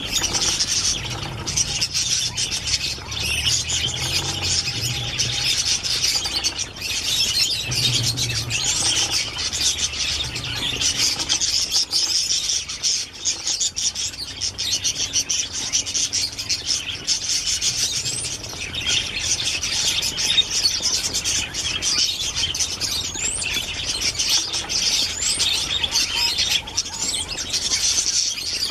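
Many small birds chirping continuously in a dense, overlapping chatter, with short rising chirps now and then.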